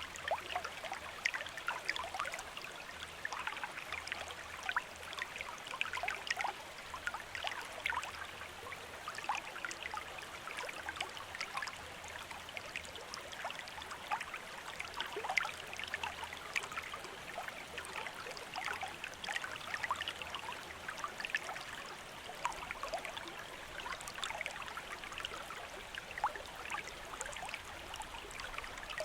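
Shallow stream running over stones: a steady babble of water, full of small splashes and trickles.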